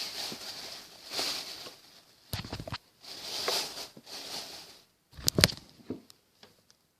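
A shopping bag rustling in swells as it is handled, with two dull thumps about two and a half and five seconds in as things are moved or set down.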